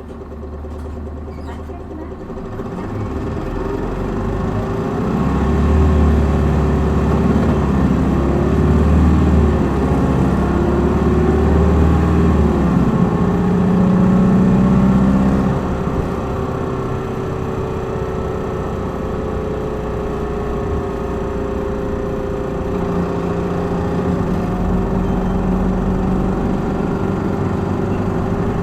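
Hino Blue Ribbon city bus's inline-six diesel heard from inside the cabin, pulling hard in power mode: the engine note builds over the first few seconds and climbs loud and strong. About halfway through it drops back and then runs steadier and quieter as the bus cruises.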